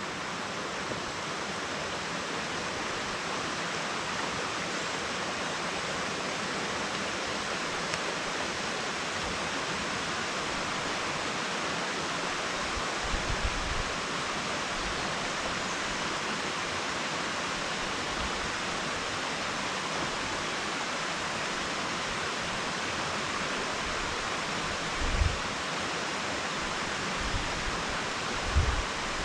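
Steady rush of running water, a waterfall or fast stream, with a few brief low thumps about halfway through and near the end.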